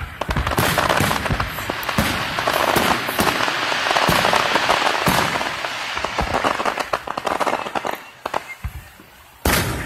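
Aerial fireworks: a dense rapid crackle of many pops and bangs for about eight seconds, thinning out, then a single loud boom near the end.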